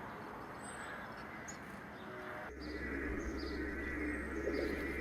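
Outdoor garden ambience with birds calling and chirping. About halfway through, the sound changes abruptly: a low hum and repeated chirps come in, and the calls become louder.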